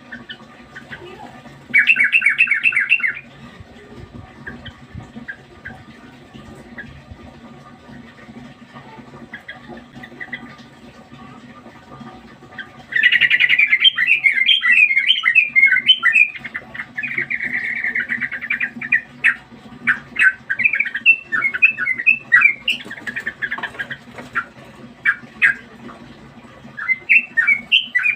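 Sooty-headed bulbul (trucukan) singing: a short burst of rapid notes about two seconds in, then, after a lull, a long run of loud, fast warbling notes and chirps from about halfway through.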